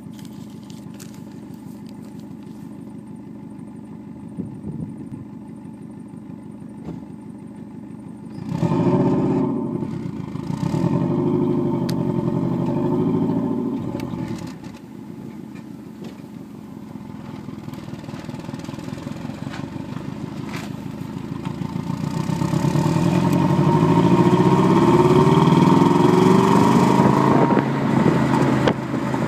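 Subaru Legacy GT-B's twin-turbo 2.0-litre flat-four through its stock exhaust: steady idle, then two short rev-ups about eight and eleven seconds in. A long slow climb in revs follows, peaking and dropping back near the end.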